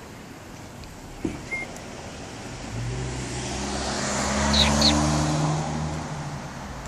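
A car passing by: engine and tyre noise that swells, is loudest a little past the middle, then fades. Two short clicks come early, and two brief high squeaks near the loudest point.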